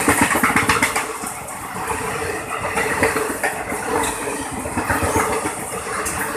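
Passenger train, heard as a steady mechanical hum with a held low tone and scattered irregular knocks and clatter.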